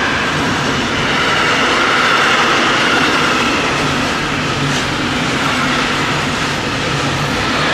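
Train rolling past close by: a loud, steady rumble of wheels on rail, with a faint high squeal that drifts in pitch.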